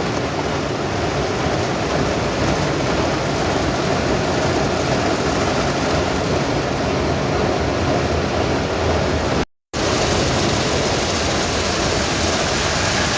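Steady rush of car wash water jets spraying on a car, heard from inside the car. It cuts out completely for a moment about two-thirds of the way through.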